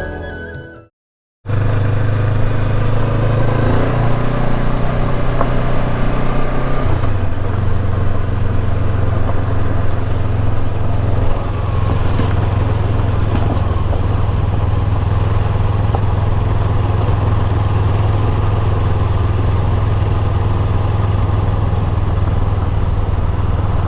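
Motorcycle engine running at a steady cruise with wind and road noise; its low note shifts slightly about seven seconds in.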